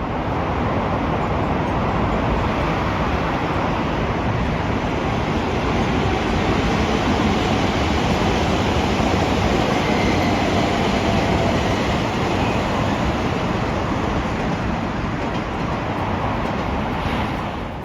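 A train running past, a steady loud rumble and rush of wheels on track that lasts well over fifteen seconds, with a faint whine in the middle, and falls away just before the end.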